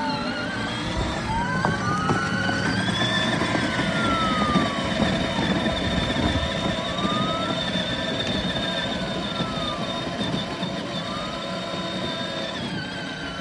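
Electronic wail siren of a Power Wheels ride-on toy fire truck, sweeping slowly up and down in pitch, with the toy's electric motor and wheels rumbling underneath.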